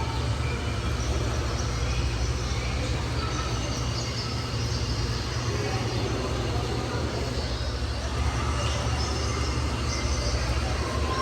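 A steady low hum with indistinct chatter of people in the background.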